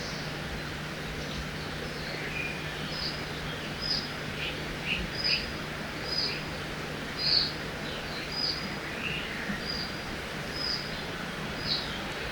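Forest ambience by a river: a steady rush of flowing water, with a bird repeating a short, high call about once a second from a few seconds in and a few lower chirps between the calls.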